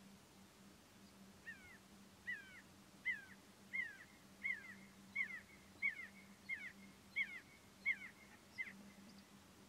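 A bird calling a series of about eleven short, falling calls, roughly one every 0.7 seconds, beginning about a second and a half in and stopping near the end.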